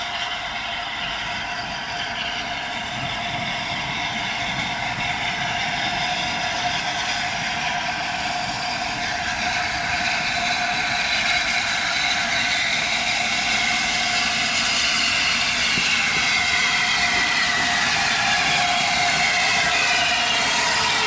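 The new-build Peppercorn A1 class Pacific steam locomotive Tornado and its train approaching, a steady rolling rumble that slowly grows louder, with high metallic ringing tones from wheels on rail that bend slightly near the end.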